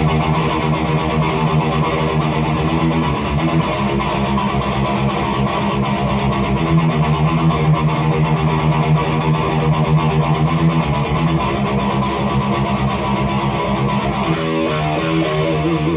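Distorted electric guitar tuned down to B flat, an Ibanez with a Seymour Duncan Omega bridge humbucker, playing a fast, rhythmic chugging metal riff through a REVV G3 distortion pedal on its lower-gain setting. The tone has snap.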